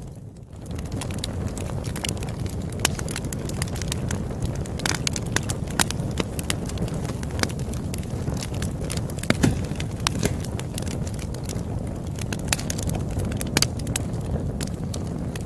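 Wood fire crackling: a steady low rumble of burning with frequent sharp pops and snaps. The sound dips briefly and comes back right at the start.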